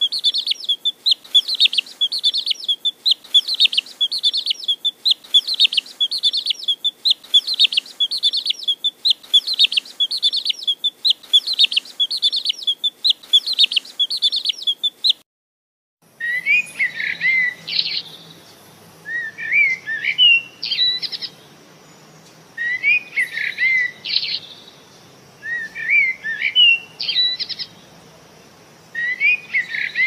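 Birds chirping: quick, evenly repeated high chirps, about one or two a second, for the first half. After a brief silence, a different bird's calls come in short rising groups about every three seconds.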